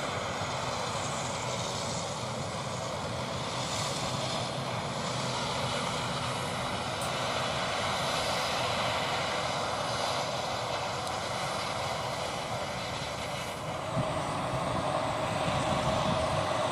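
Dassault Falcon 7X business jet's engines running with a steady whine. About fourteen seconds in there is a click, and a different jet's engines, an Embraer E190's, take over with a louder, steady drone.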